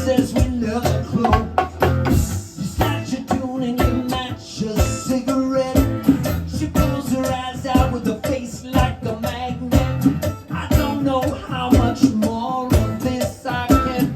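Live acoustic band music, mostly instrumental: guitar playing with percussion hits keeping a steady beat.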